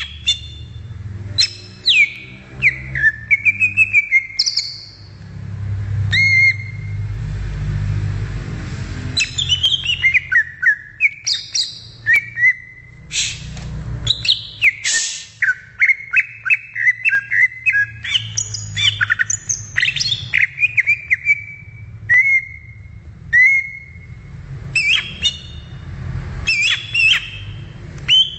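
Leafbird (cucak ijo) singing a long, varied song of clear whistles, sweeping chirps and fast trills, over a low rumble.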